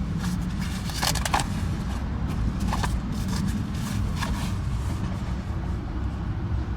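Brief rustling and clicks of the owner's manuals being handled at the glove compartment, a few times in the first half, over a steady low rumble.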